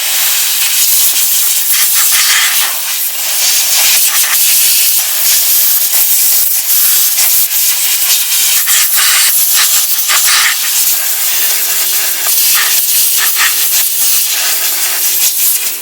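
Compressed air hissing loudly and almost without a break as it blows oily sawdust out of a chainsaw's clutch and sprocket area. A low steady hum joins in about eleven seconds in.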